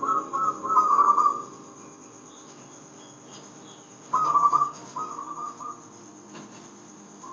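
Zebra dove (perkutut) cooing: bursts of rapid, trilling high coo notes, one in the first second or so, another about four seconds in, followed by a shorter phrase.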